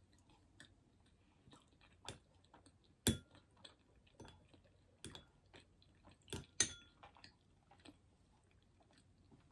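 Close-miked chewing of soft sweet potato: scattered wet mouth clicks and smacks, with a few louder clicks, the strongest about three seconds in and again at about six and a half seconds.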